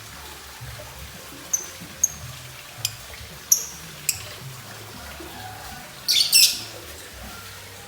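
Lovebird calling with short, sharp, high-pitched chirps every half second to second, then a quick burst of rapid shrill calls about six seconds in.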